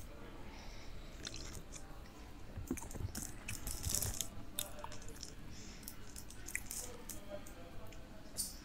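A man chewing a mouthful of KFC cheeseburger close to a clip-on microphone: a string of small wet smacks and clicks, busiest about four seconds in.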